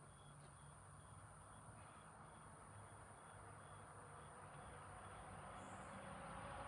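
Faint night ambience: insects, one giving a steady very high trill and another a short chirp about twice a second. A hiss like an approaching vehicle slowly swells toward the end.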